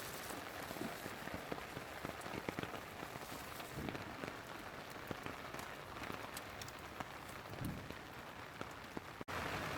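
Heavy downpour of rain, with a steady hiss and many sharp drop strikes pattering close by. Just before the end it breaks off for an instant and comes back louder and steadier.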